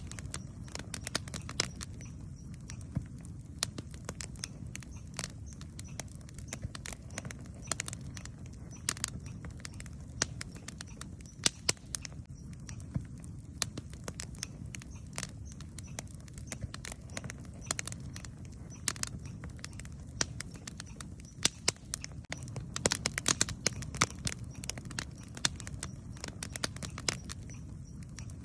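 Wood campfire crackling, with many irregular sharp pops and snaps, a few louder than the rest, over a steady low rumble from the burning fire.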